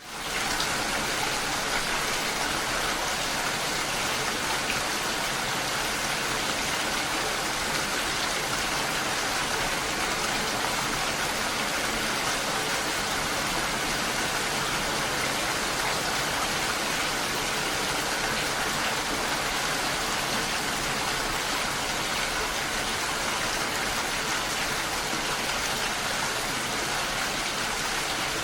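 Steady rain: a dense, even hiss of falling rain with no separate drops standing out. It fades in from silence at the very start.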